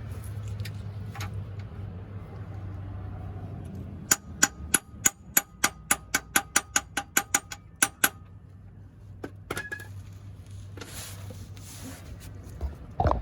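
Hammer blows driving a new pilot bearing into the end of the crankshaft: a quick run of about fifteen metallic strikes with a ringing tone, about four a second, then two more strikes a little later. The bearing is being hammered in until it bottoms out.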